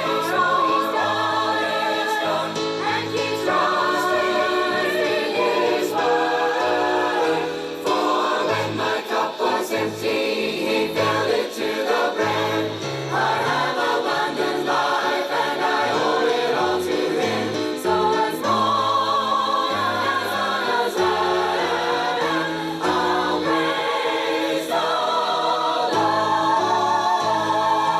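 Gospel choir singing in harmony with instrumental backing, and a bass line stepping from note to note underneath.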